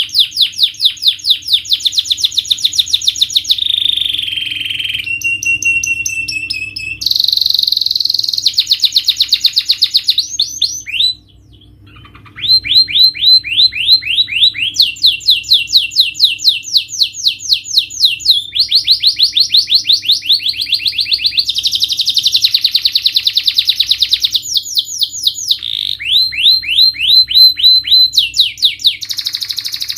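Domestic canary singing a long, fast song: rapid trills of repeated high notes that switch to a new phrase every second or two, with a short pause about eleven seconds in.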